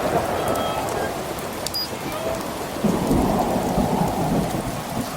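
Steady rain falling, with a low rumble of thunder rolling in about three seconds in.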